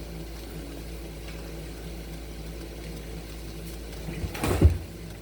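Steady low hum of stovetop cooking, with a short knock or clatter about four and a half seconds in.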